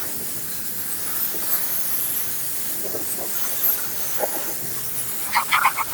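Steam jet from an electric steam car washer hissing steadily as it is sprayed over a car engine to clean it. Near the end, a rapid stuttering chirp cuts in.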